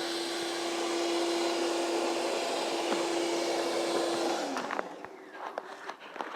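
Gas snow blower running with a steady hum, then cutting out about four and a half seconds in, leaving a few light clicks and knocks.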